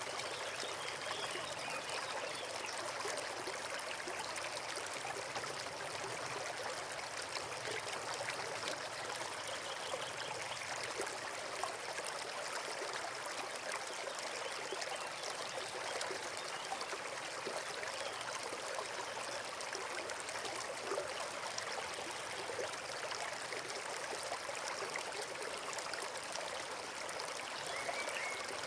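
Forest stream running steadily, with a continuous rushing trickle of water.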